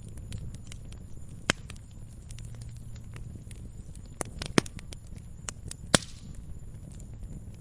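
Wood fire burning in a fireplace: a low steady rumble of flames with irregular crackling and a few louder sharp pops.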